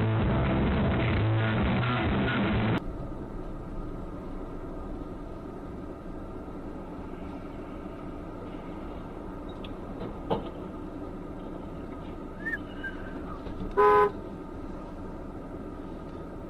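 Background music for the first few seconds, then a cut to steady road traffic noise. About 14 seconds in, a car horn gives one short honk.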